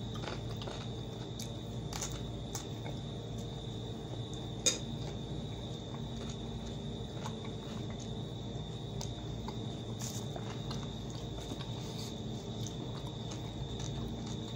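Chewing and biting into a cucumber and fried potatoes, with small crunches and clicks and one sharp click about five seconds in. Behind it runs the steady high chirring of crickets.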